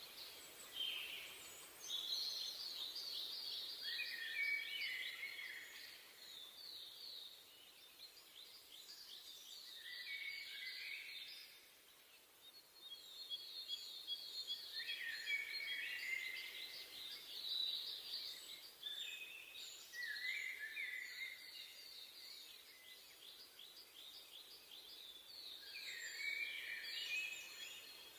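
Forest birdsong: songbirds singing rapid trilled phrases, one every few seconds, some overlapping, over a faint steady background hiss.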